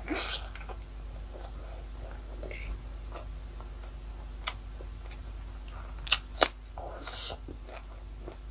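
Close-miked chewing and wet mouth sounds of someone eating rice and pork with her hand, with scattered sharp crunchy bites, the loudest two close together about six seconds in.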